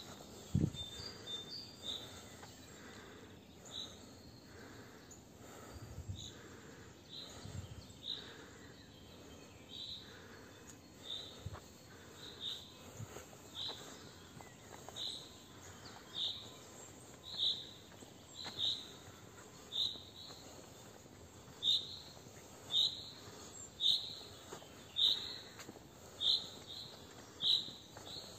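A bird repeating one short, high call about once a second, the calls growing louder toward the end, over a faint steady background hiss.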